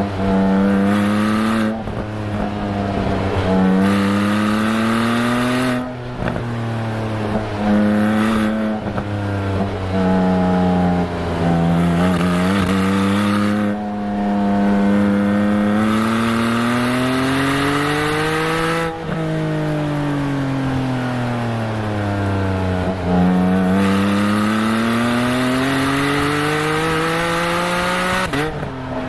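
Exhaust of a 2021 Porsche 718 Spyder's naturally aspirated 4.0-litre flat-six, heard from the rear bumper, pulling through quick PDK gearshifts: the pitch climbs and drops back at each shift. It then falls away smoothly as the car slows and climbs again near the end. At low revs it has a farty note from the bumper microphone's placement, not the car's true sound.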